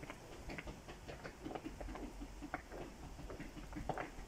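Fireworks crackling and popping in the distance: many small, irregular pops, several a second.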